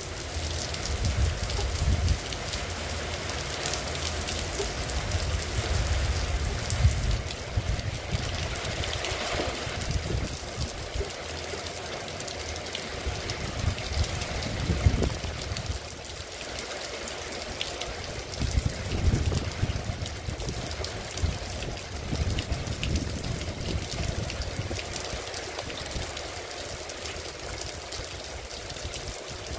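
Heavy rain falling steadily on a cobblestone street, an even hiss of drops throughout, with irregular low rumbles coming and going every few seconds.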